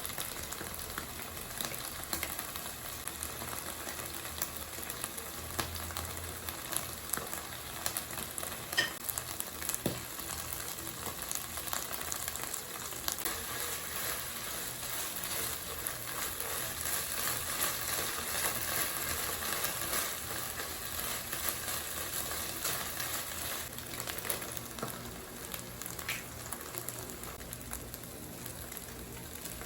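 Food sizzling and crackling in a hot frying pan, with a couple of short clinks of a utensil against the pan.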